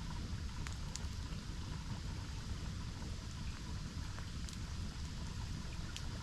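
Steady rush of a waterfall, with a few sharp crackles from a campfire, about one a second early on and again near the end.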